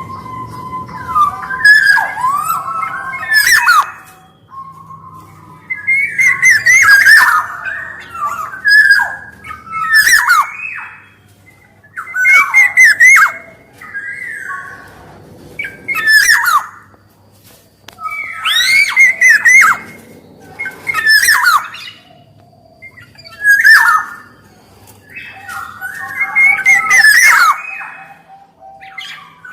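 Black-naped oriole (kepodang) singing: repeated phrases of gliding, fluting whistles mixed with scratchy notes, one phrase every two to three seconds.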